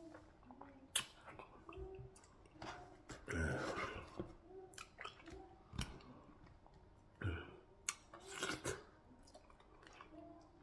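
Close-miked chewing and mouth sounds of a man eating fufu with beef in leafy soup: wet smacking, with a few sharp clicks.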